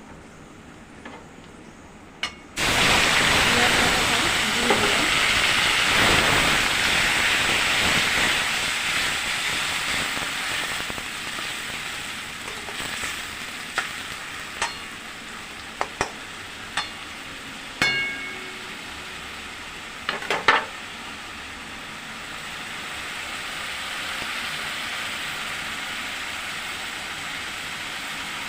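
Food dropped into hot oil in a kadai starts a sudden loud sizzle about two and a half seconds in, which slowly dies down. A metal spatula clinks against the pan several times in the middle as the contents are stirred.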